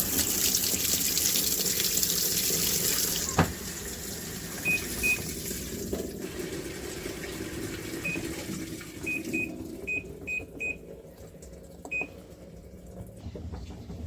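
Water rushing into a washing machine for about three and a half seconds, then cutting off with a click. After that, about nine short high beeps from the machine's control panel buttons, irregularly spaced.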